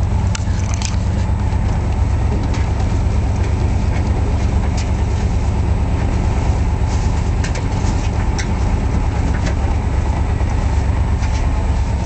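Steady low rumble of a car driving slowly, heard from inside the cabin, with scattered light clicks and rattles.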